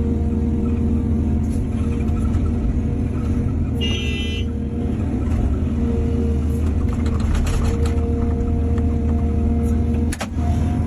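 Heavy diesel engine of an excavator running steadily at working speed, with a brief high-pitched tone about four seconds in and a run of short metallic clicks and knocks around the seventh and eighth seconds.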